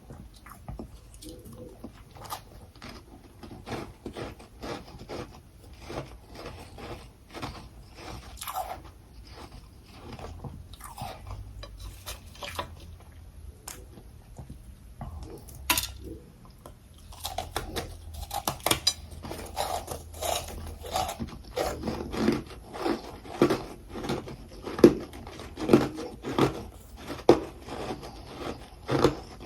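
Close-up biting and chewing of humidifier-grown freezer frost and crushed ice: scattered crisp crunches at first, then from a little past halfway denser, louder chewing, settling into about one crunch a second.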